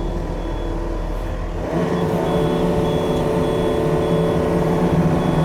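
Yanmar diesel machine working through mud, the engine throttling up about two seconds in, while its reversing alarm beeps steadily: it is backing out of ground where it is partly stuck.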